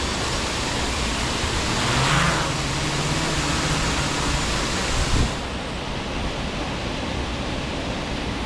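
Waterfall: the steady rush of falling water. The sound changes abruptly about five seconds in and is duller and a little quieter after that.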